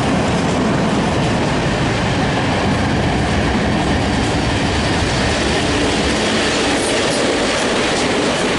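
Train hauled by an EP07 electric locomotive departing, its wheels clattering over the rail joints in a steady, loud rumble.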